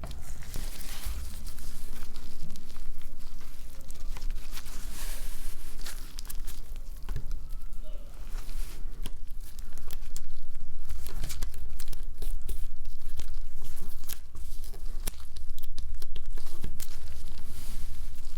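Close-up handling noise of a smartphone being taken apart: many small clicks, scrapes and crinkling from tools, parts and adhesive being worked by hand, over a low steady hum. The handling gets louder about halfway through.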